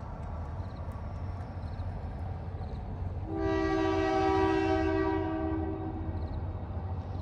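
Train air horn sounding one long blast of about two seconds, several tones at once like a chord, about halfway through. Under it runs the steady low rumble of the train.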